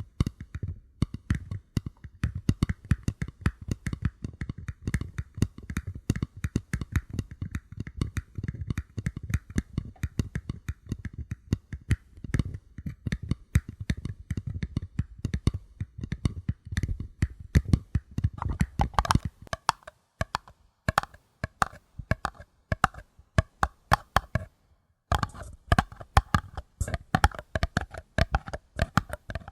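Paper cups being tapped in quick, irregular runs of soft taps, several a second. About two-thirds of the way through, the taps turn brighter and higher-pitched, and there is a brief pause before the tapping resumes.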